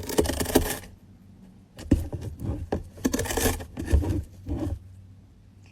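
Irregular scratching and rustling noises in two clusters of quick, clicky scrapes, with a short lull about a second in and a fade near the end.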